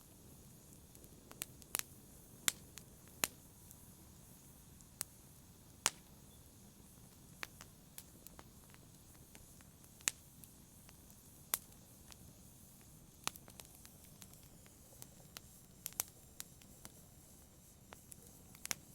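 Wood fire crackling in a fireplace: sharp, irregular pops and snaps over a soft steady hiss.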